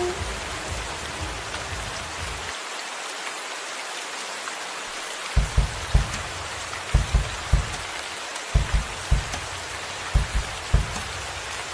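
Steady rain falling, an even hiss of drops. From about five seconds in, irregular low thuds sound through it.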